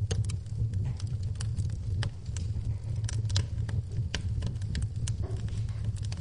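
Wood fire in a fireplace crackling and popping: many sharp, irregular pops and snaps over a steady low rumble of the flames.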